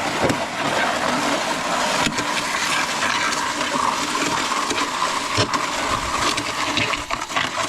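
MudMixer concrete mixer running, its auger churning wet concrete with a steady, dense wash of noise and a couple of sharp knocks as stones catch in the auger. The sound drops off near the end as the auger jams on rocks.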